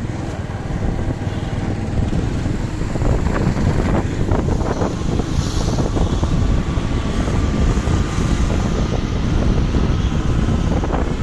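Wind buffeting the microphone over road and traffic noise while riding a bike, a loud steady rumble with a few scattered knocks.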